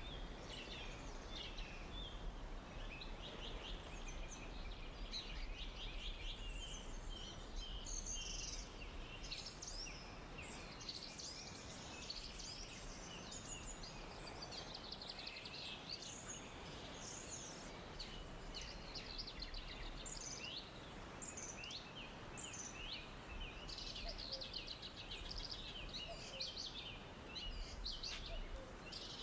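Forest ambience: several songbirds chirping and trilling continuously over a soft, steady background hiss.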